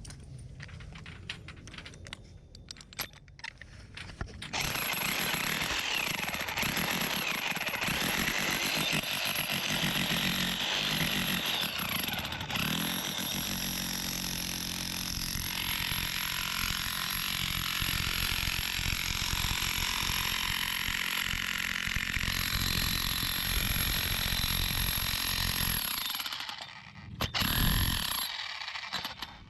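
Electric hammer drill fitted with a homemade pile-driving head, hammering a steel pipe stake into the ground. It runs steadily for about twenty seconds after a few quieter knocks, stops, then gives one short burst near the end.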